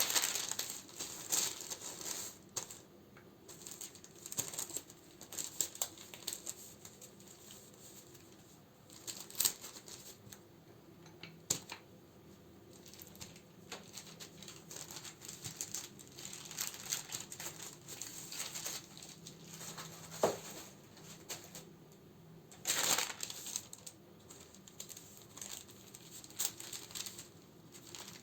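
Close-up crinkling of plastic wrapping and paper as candles are handled and sorted, in irregular bursts with scattered small clicks and taps.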